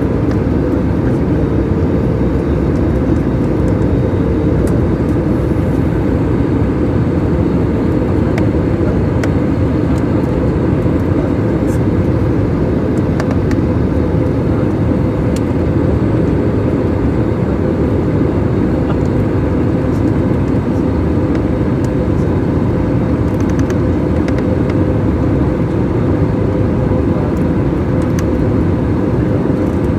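Steady noise of an aircraft's engines and rushing air inside the passenger cabin, with a faint steady hum running through it.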